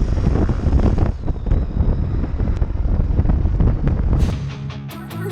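Wind buffeting a motorcycle rider's camera microphone at speed, a loud, rough rumble. It cuts off about four seconds in, and guitar music takes over.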